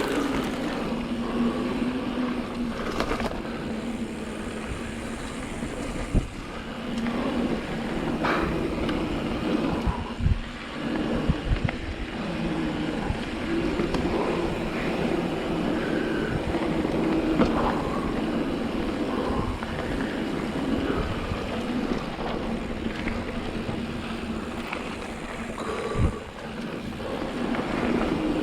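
Mountain bike riding a dirt trail: tyres rolling over the ground with frequent knocks and rattles from bumps, and wind on the action camera's microphone.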